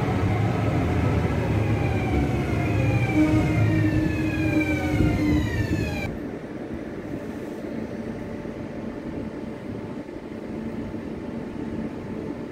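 NS VIRM double-deck electric train running past the platform: a rumble of wheels on rail under an electric motor whine in several tones, all falling in pitch. About six seconds in the sound cuts to a quieter, steady rumble of a double-deck train moving off.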